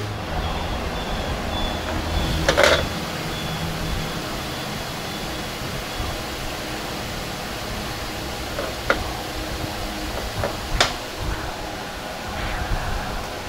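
Steady low workshop hum with a few sharp clicks or knocks, the loudest about a third of the way in and two smaller ones later, as of tools or parts being handled.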